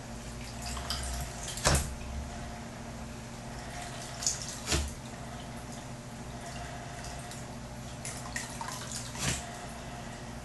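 Aquarium vacuum cleaner working in a fish tank: water dripping and splashing over a steady low hum, with three sharper splashes or knocks spread across the stretch.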